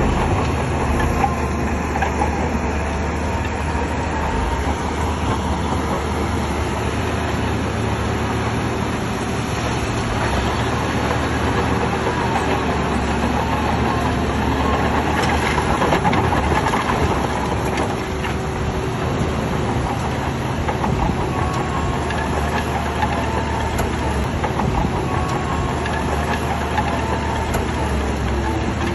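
Shantui crawler bulldozer at work: its diesel engine running steadily under load, with the metallic clatter and squeal of its steel tracks.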